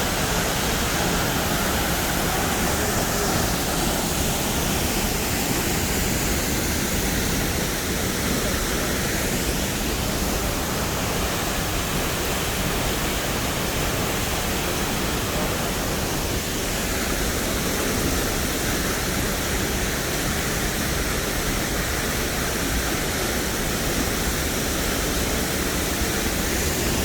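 Steady rush of a waterfall, an even wash of falling water with no breaks.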